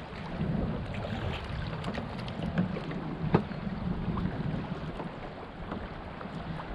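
Water sloshing around a kayak with wind rumbling on the microphone, and scattered small knocks on the hull. One sharper knock about three and a half seconds in.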